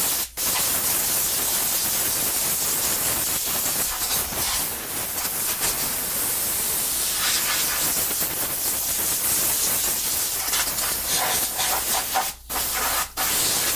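Compressed air hissing from a blow gun, blasting router sawdust out of a freshly carved cherry-wood sign to reveal the lettering. A steady hiss, cut off briefly near the start and twice near the end as the trigger is released.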